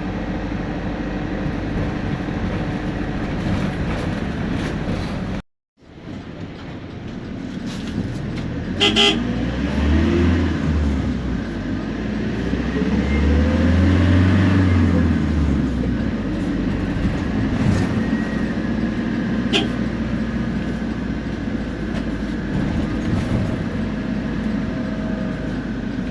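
Temsa Prestij SX midibus's diesel engine and turbo running, then pulling away with the revs rising and falling and a whine from the driveline. A short horn-like toot comes about 9 s in. The sound cuts out completely for a moment about 5 s in.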